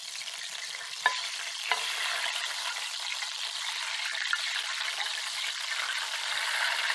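Thin yucca chips, wet with beet juice, sizzling and bubbling in hot oil in a saucepan as more slices are slid in. The bubbling is the water still in the slices cooking out. Two sharp clicks come about a second and a second and a half in.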